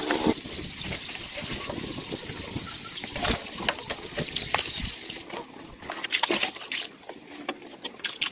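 Liquid trickling and splashing, with scattered clicks and knocks, more of them in the second half.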